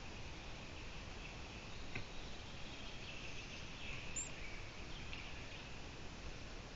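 A small bird chirping faintly over a steady hiss, with a few short chirps in the middle and one brief high chirp about four seconds in.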